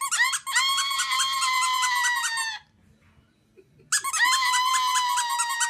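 Two long, high-pitched squeals with a fast flutter, each lasting about two and a half seconds, with a short silent gap between them.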